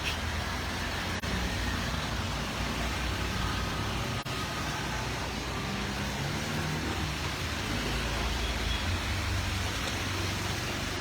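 Steady outdoor street noise: road traffic running with a low engine hum under a broad hiss, with two very short dropouts about one and four seconds in.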